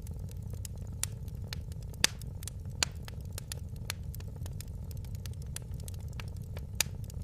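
Fireplace fire crackling, with sharp pops at irregular intervals over a steady low rumble. The loudest pops come about two seconds in and near the end.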